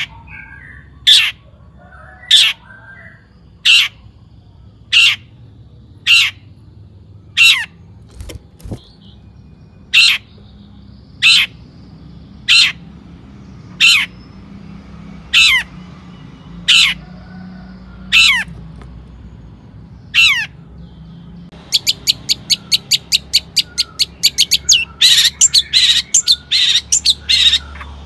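Long-tailed shrike calling: a single falling call, repeated about once every second and a quarter, then from about two-thirds of the way in a fast run of short notes, about eight a second.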